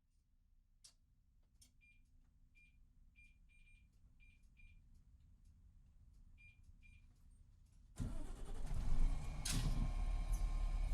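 A series of short, high electronic beeps over a faint hum, then about eight seconds in the Cummins ISX12 diesel of an MCI D4500CT coach starts suddenly and runs loud and steady, with a sharp louder burst of noise about a second and a half after it catches.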